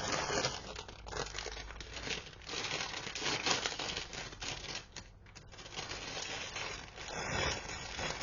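Packaging rustling and crinkling as it is handled, in irregular bursts with a brief lull about halfway through.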